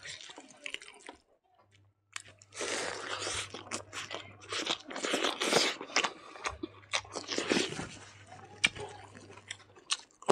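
A man chewing a mouthful of rice and pork tail close to the microphone: loud wet crunching with sharp mouth clicks. It stops briefly about a second in, then is loudest from about two to six seconds in.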